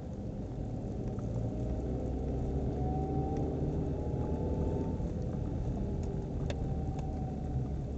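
Nissan Qashqai on the move: steady low road and drivetrain rumble with a thin, high whine that rises in over about the third second, fades near the fifth and returns about six seconds in. The whine is the transmission howl.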